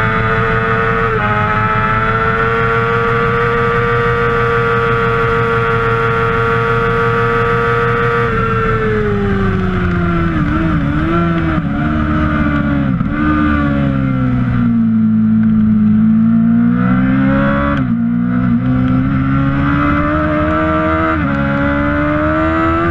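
Kawasaki ZX-6R inline-four racing engine at high revs, holding a steady high note, then dropping in pitch through a run of quick throttle blips as it downshifts under braking. It pulls back up through the gears with two upshifts near the end.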